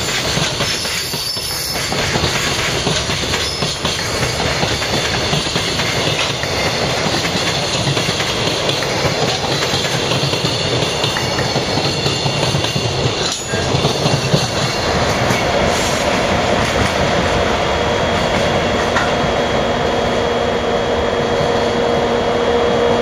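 Freight train rolling past, its wagons' wheels running and clattering on the rails in a steady, loud din. About two-thirds of the way through, a steady wheel squeal sets in and holds.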